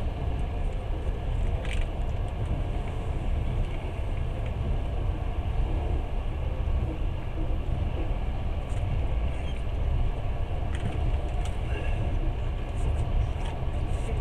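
Passenger train in motion, heard from the carriage: a steady low rumble of the running gear on the track, with a few faint ticks now and then.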